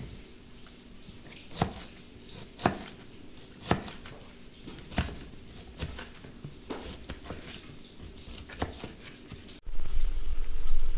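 Knife chopping food on a cutting board in slow single strokes, about one a second. Near the end it cuts abruptly to a louder, steady noise.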